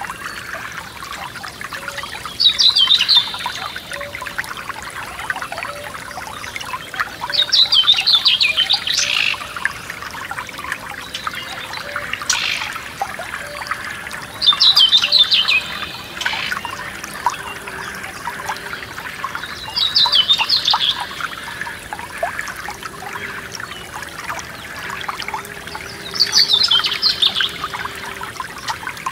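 Forest stream trickling and splashing over stones, with a songbird singing a short, fast trilled phrase five times, about every five or six seconds.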